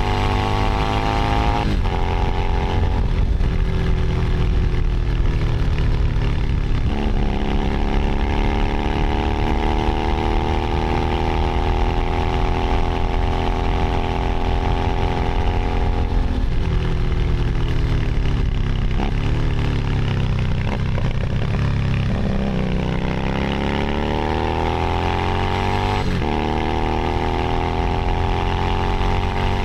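Keeway SCR 250V motorcycle engine on the move. It revs up and drops back sharply at a gear change about two seconds in, pulls up again and holds a steady cruise, then slows down. It builds once more with another sharp shift near the end.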